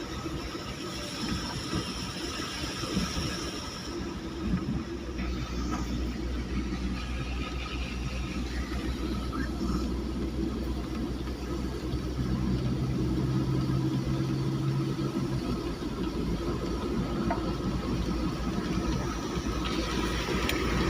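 A vehicle's engine and road noise running steadily, with a low hum that strengthens about five seconds in and eases off later.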